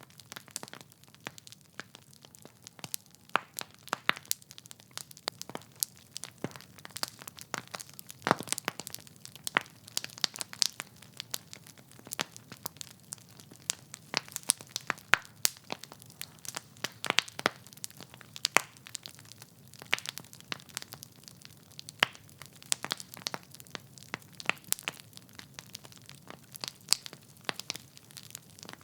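Wood fire in a fireplace crackling, with irregular sharp pops and snaps from the burning logs over a soft low rumble of the flames.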